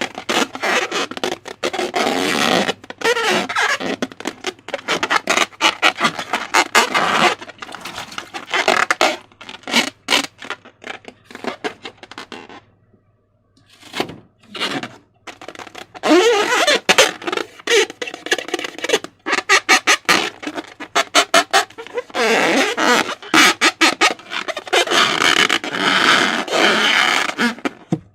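Slime being squished and worked by hand: dense wet squelching with crackling and clicking air pockets and short squeaky tones. It stops for about a second and a half near the middle, then resumes.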